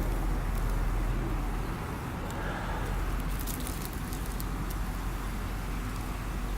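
Wood campfire burning, with a few sharp crackling pops over a steady low rumble.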